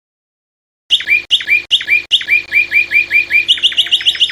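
Songbird singing a rapid series of identical downslurred whistled notes, about four a second, that quickens near the end. The song starts abruptly about a second in.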